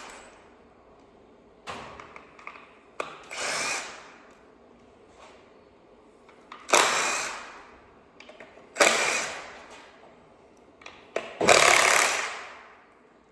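Power tool running in four short bursts of about a second each, spinning out the bolts that hold the coil packs on an LS V8 engine, with a few light clicks between the bursts.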